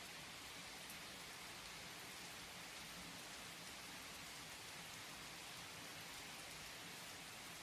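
Steady rainfall, a soft even hiss with faint patter of drops.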